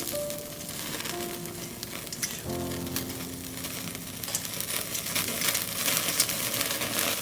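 Food sizzling on a charcoal shichirin grill, with sharp crackling pops coming thicker from about four seconds in.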